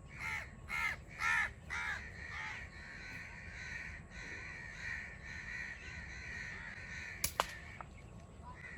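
Crows cawing: a quick run of about six harsh caws in the first two seconds or so, over a steady high background hum. There is a short sharp snap about seven seconds in.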